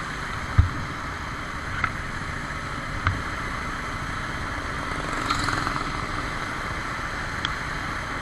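Steady rushing hiss of rain and wind noise on the camera microphone, with a few sharp knocks; the loudest is a low thump under a second in.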